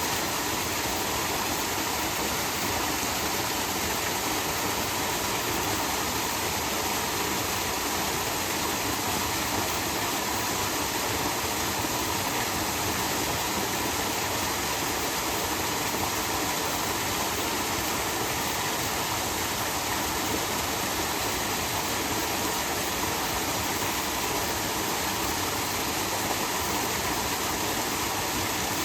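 Steady rush of falling water from a small waterfall, even and unbroken.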